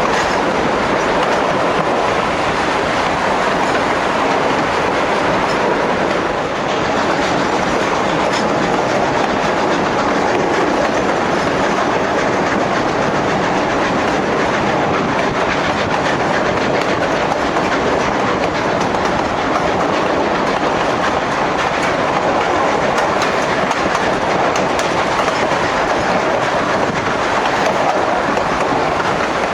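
Narrow-gauge train cars running along the track: a steady noise of wheels on the rails that holds at a constant level.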